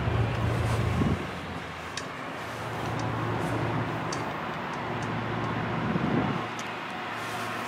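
Low engine rumble of a diesel train approaching in the distance, mixed with vehicle noise. It swells, eases off about a second in, and swells again near the end. A few faint ticks are heard.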